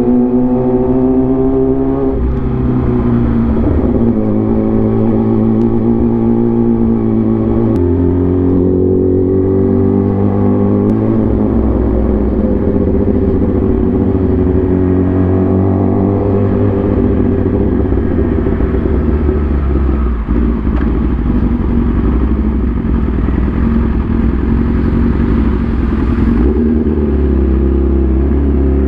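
Motorcycle engine running under way, its note jumping to a new pitch several times: about two seconds in, near eight and eleven seconds, and again near the end.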